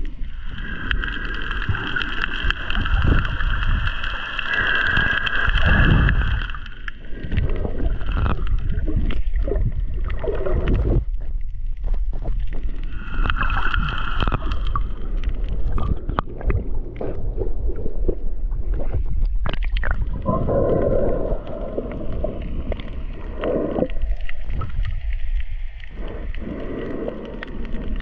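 Muffled underwater sound from a camera held below the surface while snorkeling: water gurgling and bubbling, with a steady high whine for the first few seconds and again briefly about halfway through.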